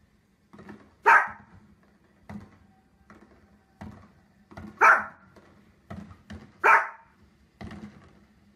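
A small long-haired dog barking: three loud, sharp barks a couple of seconds apart, with fainter short sounds between them.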